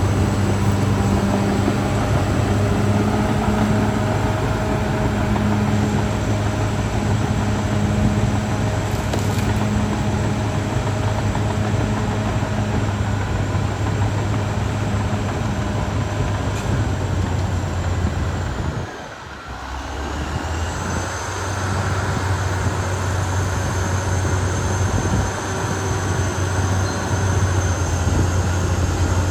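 Caterpillar D6R XL bulldozer's diesel engine running with a steady low hum, a faint high whine over it. The sound drops away for about a second roughly two-thirds of the way through, then comes back.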